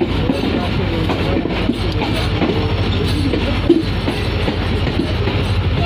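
Passenger train coaches rolling along the track, heard from an open coach door: a steady rumble of wheels on rail with rattling clicks and faint squeaks. One brief, louder squeak comes a little past halfway.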